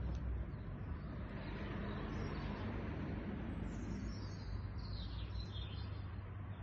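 Outdoor background noise with a steady low rumble, and birds chirping briefly, once about four seconds in and again about a second later.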